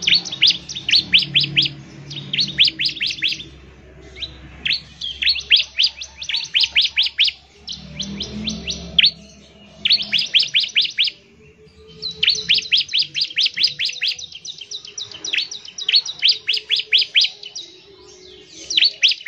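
Bar-winged prinia (ciblek) singing its rapid 'ngebren' song: bursts of quick, sharp notes that each sweep down in pitch, several a second, in phrases of one to two seconds with short pauses between them. The song is a masteran call meant to set other ciblek singing.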